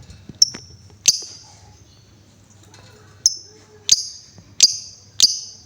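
Female lovebird giving six sharp, high chirps, two about a second in and four evenly spaced in the second half, each cutting in suddenly and fading quickly: the short repeated 'ngetik' call.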